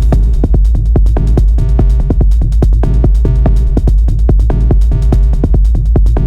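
Electronic techno groove from the Dyad Max for Live synth: a heavy, steady low bass under rapid drum-machine-style percussive hits and short repeating synth notes, looping in an even rhythm.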